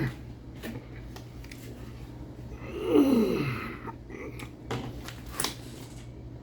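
A man's wordless voiced sound, such as a groan or hum, about three seconds in, sliding down in pitch over less than a second. Faint scattered clicks come before and after it.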